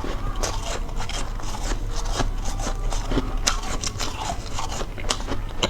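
Close-miked crunching of frozen ice being bitten and chewed, a dense run of irregular crisp cracks and snaps.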